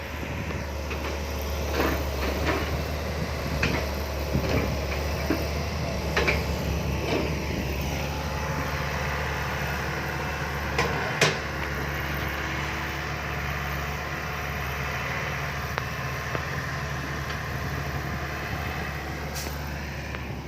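Six-wheel dump truck's diesel engine running steadily, with scattered knocks and clatter in the first half. One loud thump about eleven seconds in.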